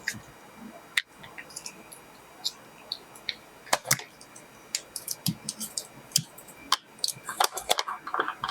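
Irregular clicks, taps and light rustling of objects being handled, with a quicker flurry of clicks near the end.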